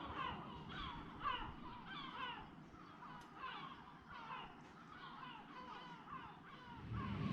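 A bird calling over and over, a short falling note about twice a second, faint.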